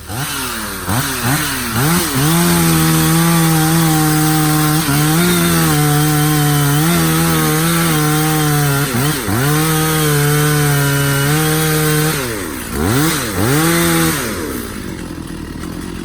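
Stihl two-stroke chainsaw revving up and held at high revs cutting wood, its pitch dipping briefly a few times under load. Near the end it is blipped twice and drops back to a low idle.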